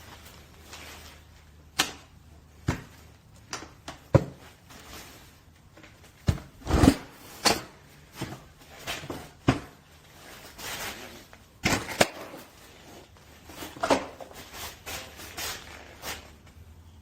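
Irregular knocks and clicks, some a second or more apart and some in quick clusters, with a few short rustling swishes in between: objects being handled in a small room.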